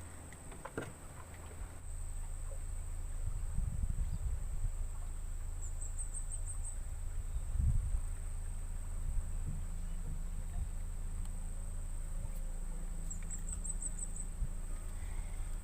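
Insects droning steadily at a high pitch, with two short chirping trills about six and thirteen seconds in, over a low rumble of handling or wind noise.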